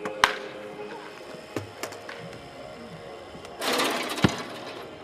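Sharp cracks of baseball practice: a loud one just after the start and another about four seconds later inside a second-long burst of hiss, with a few lighter knocks between, over background music.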